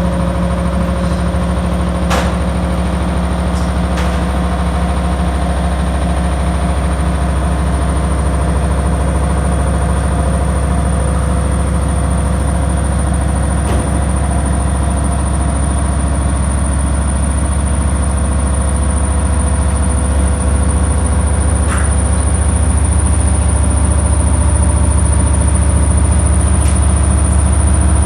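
Washing machine running with a steady low hum and a faint high whine, growing a little louder in the last several seconds, with a few short clicks.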